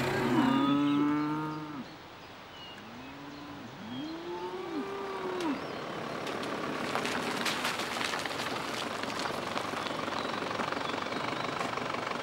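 Cattle mooing: one loud moo at the start, then three shorter, fainter moos over the next few seconds. After that there is a steady rustling background with scattered clicks.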